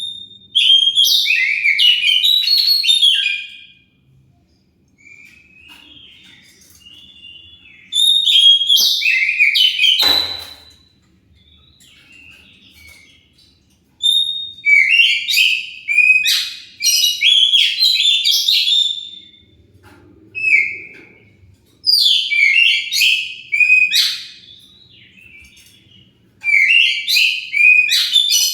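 Oriental magpie-robin (kacer) singing: loud bursts of rapid, varied whistled and chattering notes, in phrases of two to five seconds with short quieter gaps between them.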